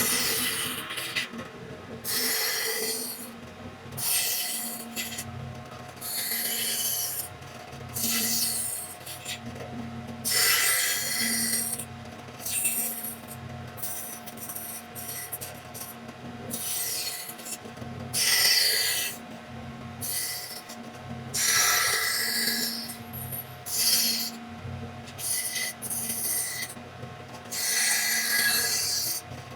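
Repeated rubbing strokes across a wooden cutting board, each lasting about a second, with short gaps between them and a faint steady tone underneath.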